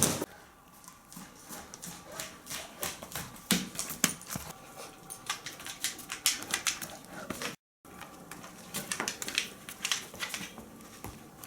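Irregular clicks and taps of a Saint Bernard moving about, its claws on a hard floor. The sound drops out for a moment about two thirds of the way through.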